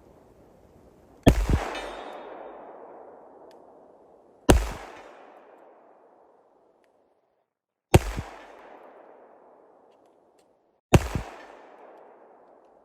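Four shots from an HK45 pistol in .45 Auto, about three seconds apart, each followed by a long echo that fades over a couple of seconds.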